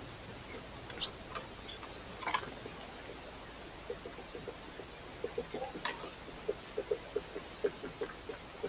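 Birds at a feeder: a sharp click about a second in, then from about four seconds a quick, irregular run of light pecking taps, over the trail camera's steady hiss.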